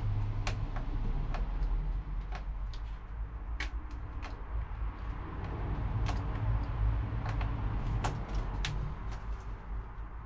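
Irregular light clicks and taps of hands working a thin plastic takeaway container and a plug, over a steady low rumble.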